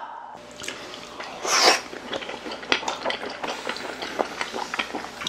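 People chewing raw yellowtail belly sashimi: many small wet clicks and smacks of mouths and chopsticks, with one louder hissing sound about a second and a half in.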